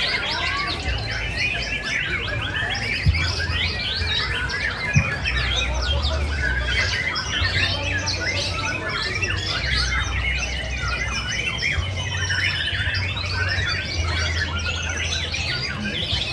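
Many caged songbirds singing at once in a dense chorus of overlapping chirps and trills, with a low rumble underneath and two brief knocks about 3 and 5 seconds in.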